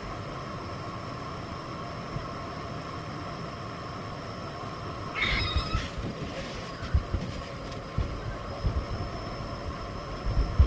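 Miele Blizzard CX1 bagless cylinder vacuum cleaner running steadily. There is a short burst of noise about halfway, then scattered knocks and bumps in the second half.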